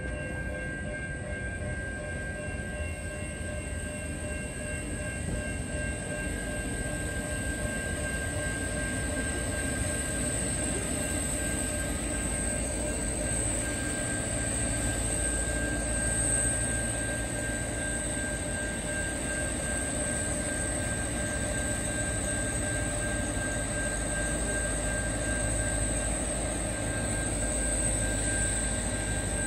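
A diesel passenger railcar pulling into a station platform, its low rumble of engine and wheels growing louder as it draws near. A steady high-pitched whine runs beneath it.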